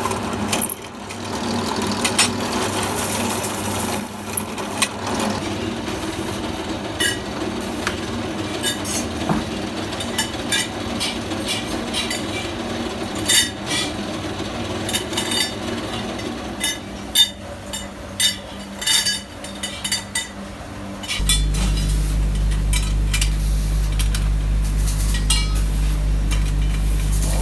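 Metal parts clinking and tapping over a steady machine hum. About three-quarters of the way through, a motor starts and runs with a louder, steady low hum.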